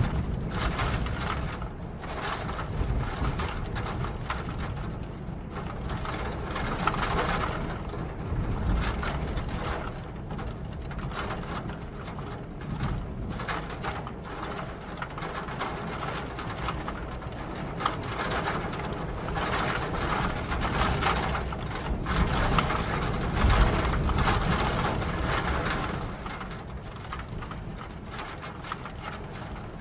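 Steady rain: a dense, continuous run of drops striking a surface over a low rumble, growing louder and softer in places.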